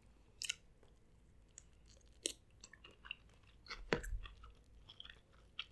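Quiet, close-miked chewing of spicy seafood, with soft wet mouth clicks and light crackles as shellfish is handled. The sharpest click comes about four seconds in.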